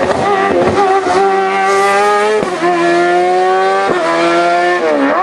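BMW S1000RR inline-four superbike engine in a hillclimb race car running at high revs through quick upshifts. The pitch holds or climbs, then drops sharply at each change, three times. Near the end the revs fall away and climb again.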